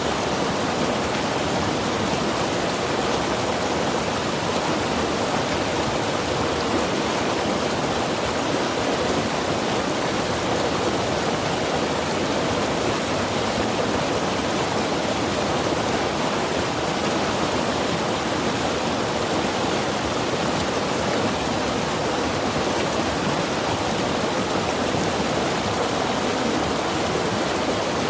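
Mountain river rushing steadily over rocks, a constant even roar of water.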